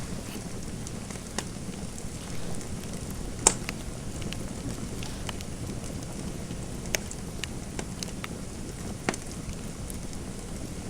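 Fireplace fire crackling: a steady low rumble of burning with scattered sharp pops. The loudest pop comes about three and a half seconds in.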